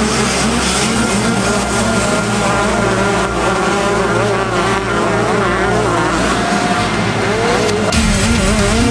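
Motocross bike engines revving, their pitch rising and falling as the throttle is worked, over a steady music bass line.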